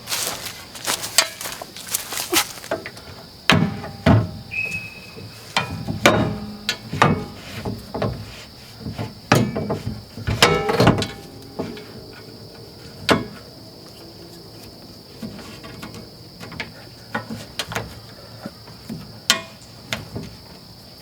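Irregular knocks and clinks, most of them in the first half, over a steady high-pitched insect drone.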